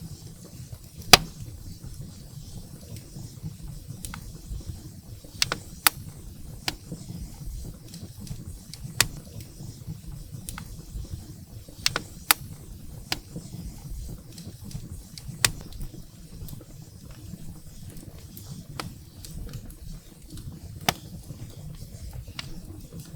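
Firewood burning in a fireplace: irregular sharp crackles and pops over a low, steady rumble of the flames, the loudest pop about a second in.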